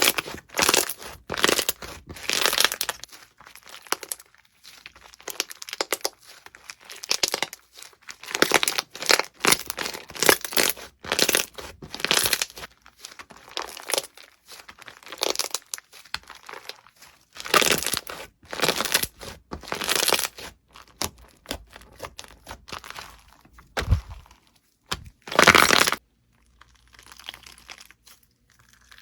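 Slime being squeezed and pulled by hand, making a run of irregular noisy squishes and crackles, each a fraction of a second to a second long, with a quieter stretch near the end.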